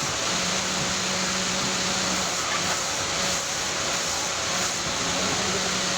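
Machinery running steadily: an even hiss with a low hum that drops out for a couple of seconds in the middle and returns.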